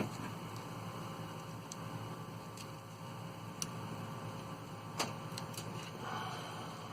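A few faint, scattered clicks and ticks of small wires and parts being handled, over a low steady background hum.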